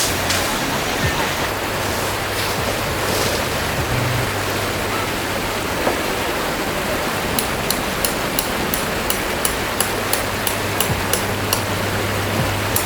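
Stream water flowing steadily. About halfway through, a regular run of sharp, high ticks joins in, about three a second.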